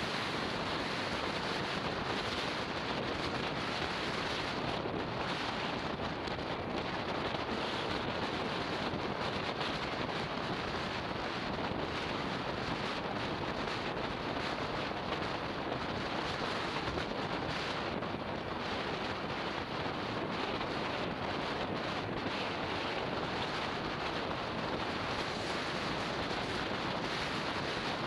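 Wind rushing over a motorbike-mounted action camera's microphone while riding, a steady, even noise with no distinct engine note.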